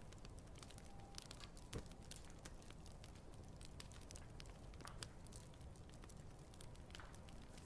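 Quiet wood campfire crackling: irregular small pops and snaps over a low rumble of the flames, with one sharper pop about two seconds in.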